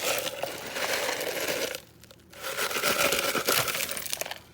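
Ice cubes clattering and clinking as they are poured onto seafood in a bowl, in two pours with a short pause about two seconds in.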